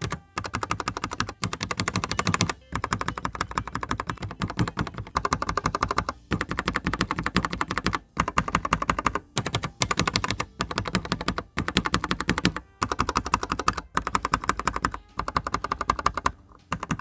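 Fast typing on a Gamakay/Womier K87 mechanical keyboard with Gateron brown switches: rapid runs of clacking keystrokes broken by brief pauses every second or two.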